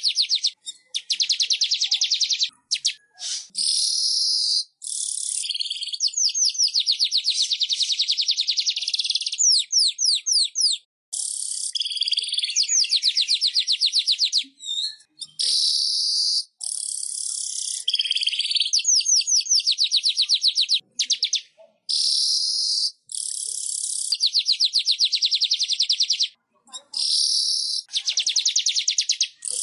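Manyar (weaver bird) song: high-pitched bouts of very fast chattering trills mixed with buzzy, wheezy passages. Each bout lasts two to four seconds, broken by short pauses.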